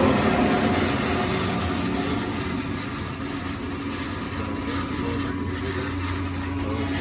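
Tannewitz 36-inch vertical bandsaw running with no load, its motor finishing its spin-up and settling into a steady hum with the whir of the wheels and blade about half a second in.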